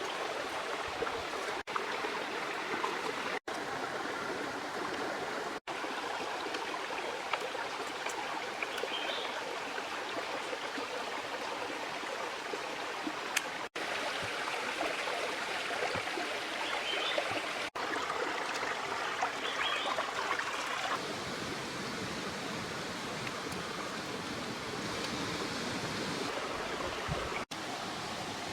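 Steady rushing of flowing river water, broken by a few very brief silent gaps.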